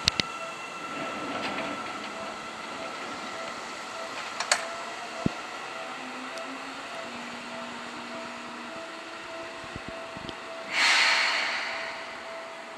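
Seibu 2000-series electric train standing at the platform with its equipment humming and a faint steady pulsing tone, a couple of light clicks, then a loud burst of compressed-air hiss from the train about eleven seconds in that fades over a second, part of its departure sequence.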